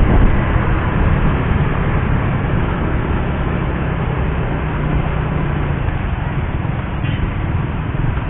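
Suzuki GSX-R150's single-cylinder engine running at fairly steady revs while the bike is ridden, with a steady rush of wind and road noise.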